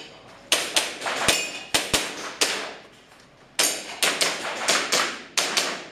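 Airsoft pistol shots fired in quick succession during a practical shooting stage: a rapid string of sharp cracks, a gap of about a second near the middle, then another quick string. A few shots are followed by a short metallic ring.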